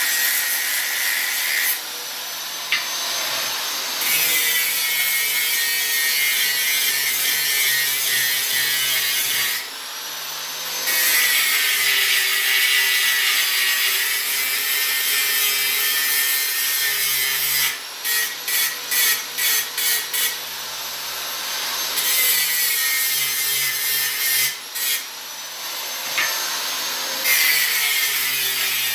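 Grinder with no on/off switch grinding steel pieces, its motor running steadily under a loud rasping grind. The grinding breaks off several times as the disc comes off the work, with a quick run of short touches a little past halfway.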